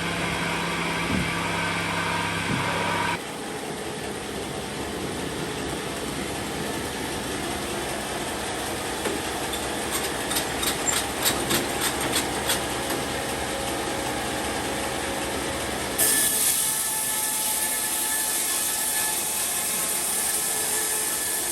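Sawmill machinery running steadily, its sound changing abruptly about three seconds in and again near the end, with a quick run of clicks in the middle.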